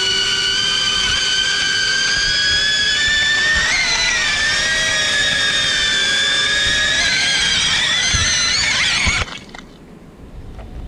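Brushless motors and three-blade props of a small FPV quadcopter (EMAX RS1306B 4000kv motors on 4S) whining, the pitch wavering and sliding up and down with throttle. The whine cuts off suddenly about nine seconds in.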